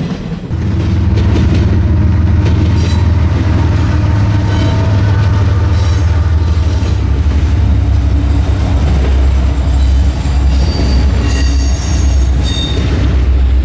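Freight train passing close by: a heavy, steady rumble of cars rolling on the rails, with brief high-pitched wheel squeals near the end.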